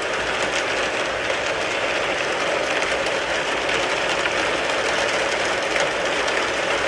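Rain falling steadily on a car's body, a dense even patter of countless small drop hits.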